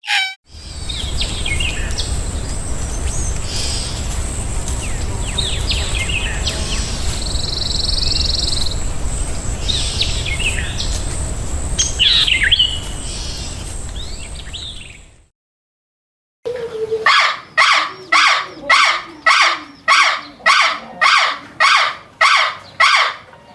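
Small birds chirping over a steady low rumble and a thin high steady tone; these cut off about 15 seconds in. After a short gap, a loud bird call repeats evenly about twice a second.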